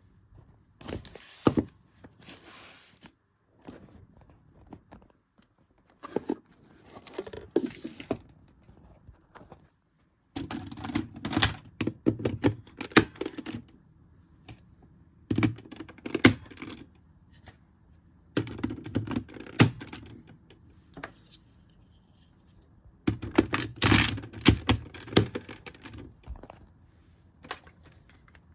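Plastic robot-toy parts being handled and snapped together: bursts of clicks, clacks and rattling, with short pauses between them, as the cube pieces are fitted into the combined robot.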